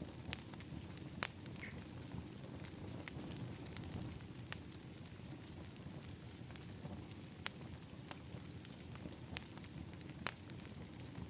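Wood fire in an outdoor fire pit crackling: irregular sharp pops, about half a dozen standing out, over a steady low rush.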